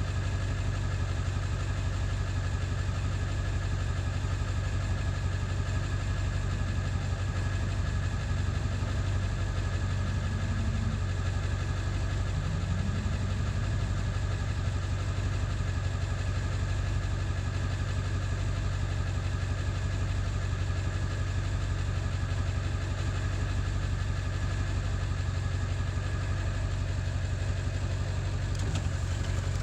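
Ford 7.3 Powerstroke V8 turbo-diesel idling steadily. The owner finds it still rough-running even after a new ICP (injection control pressure) sensor.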